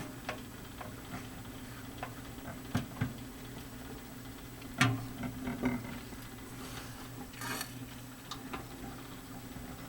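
Microwave turntable turning with a steady low hum, its tray giving off scattered light clicks and ticks, one sharper click about five seconds in.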